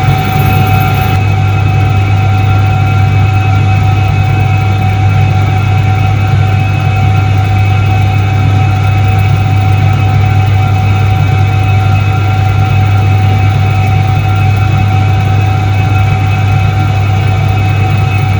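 1978 Soviet Iset-3 washing machine running, its electric motor giving a steady low hum with a fainter whine above it.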